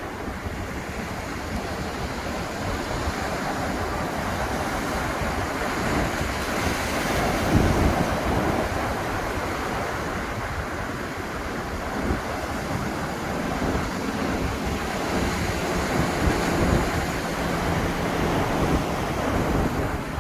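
Atlantic surf breaking and washing on the beach, with wind on the microphone; one wave breaks louder about seven seconds in. A faint low steady hum joins in during the last few seconds.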